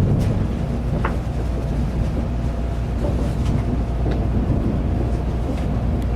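Shinkansen bullet train running, heard from inside the passenger car: a steady low rumble with faint tones above it and scattered light clicks and rattles.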